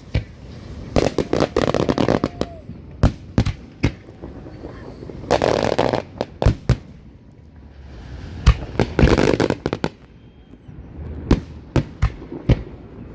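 Fireworks display: many sharp bangs of bursting aerial shells at irregular intervals, some coming in quick clusters, with denser stretches of rapid pops lasting about a second.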